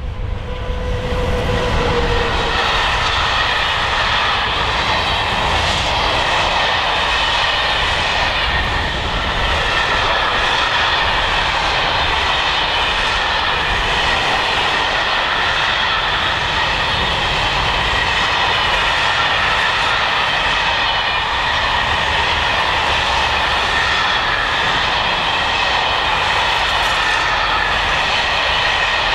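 A long freight train of covered sliding-wall wagons rolling past at speed: a steady, loud rumble of wheels on rail with high ringing tones from the running gear. Just after the start, a tone from the passing locomotive falls slightly in pitch.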